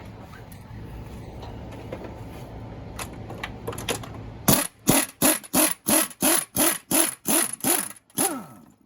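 Low steady hum with a few faint clicks, then about halfway in a quick run of about ten short mechanical bursts, roughly two and a half a second, each falling slightly in pitch, from tool work on the engine mount.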